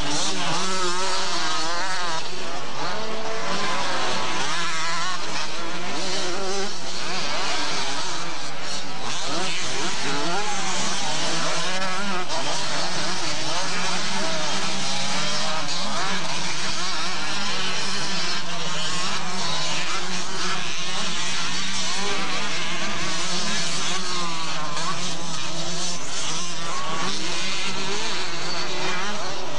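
Several motocross motorcycles racing together, their engines revving up and down and overlapping as the riders work the throttles.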